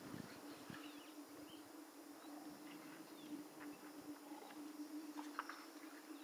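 Faint outdoor ambience: scattered short bird chirps over a steady low hum, with a few soft low thuds in the first second.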